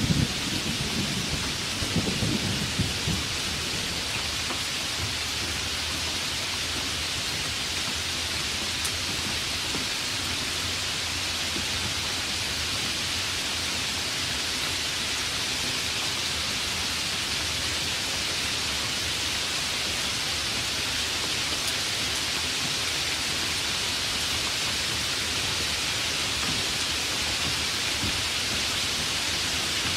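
Steady heavy rain, with the last of a thunder rumble dying away in the first few seconds.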